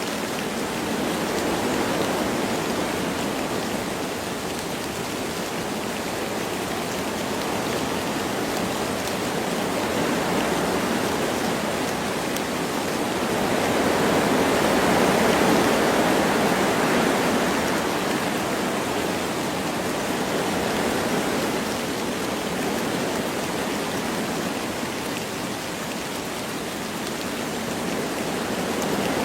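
Wind blowing through forest trees with light rain: a steady rushing that swells and eases slowly, loudest about halfway through.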